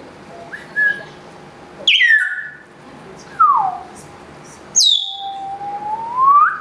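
African grey parrot whistling a string of varied calls: a short rising whistle, sharp squeaks that sweep steeply down in pitch, a falling whistle, and a long whistle that slowly rises in pitch near the end.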